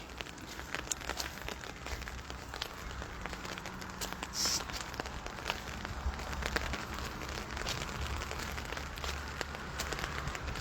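Light rain falling, with scattered drops ticking irregularly close to the microphone.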